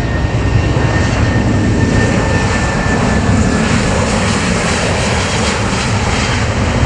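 Jet engines of a Boeing 737-700 airliner running loud, a steady roar with deep rumble and a thin whine that fades out about halfway through.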